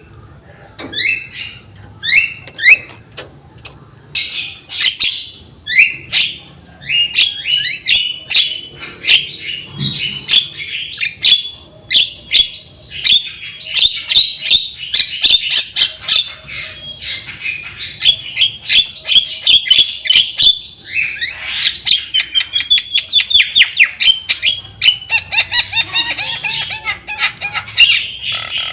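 Javan myna (jalak kebo) calling non-stop: a loud, rapid chatter of short squawks and sweeping chirps that quickens into fast runs of notes near the end.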